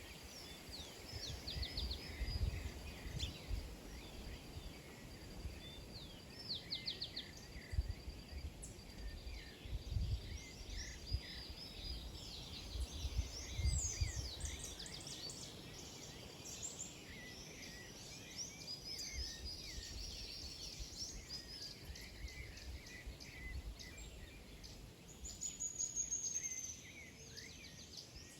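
A flock of small birds chirping and twittering, with many short overlapping calls and a quick trill about 26 seconds in. Low irregular rumbles sit underneath, mostly in the first half.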